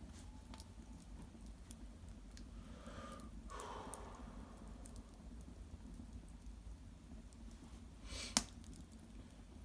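Cedar branches and bark burning in an irori hearth: faint scattered crackles and pops over a low rumble, with a brief soft rustle about three and a half seconds in and one sharp, louder crack near the end.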